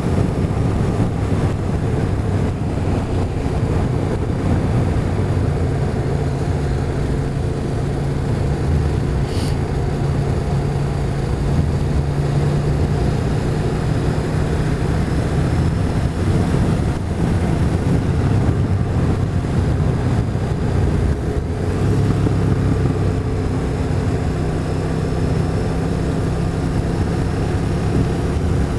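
Motorcycle engine running at a steady cruise under a constant rush of wind noise. The engine note changes about three-quarters of the way through, and there is a brief high chirp about ten seconds in.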